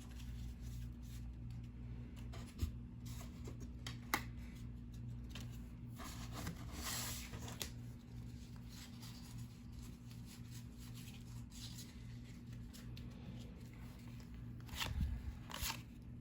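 1990-91 NBA Hoops trading cards handled and flipped through one by one: soft slides, brushes and light taps of card stock, now and then, over a steady low hum.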